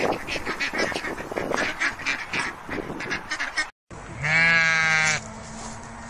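Canada geese honking in quick, repeated calls, cut off abruptly after a few seconds; then a sheep gives one long bleat lasting about a second.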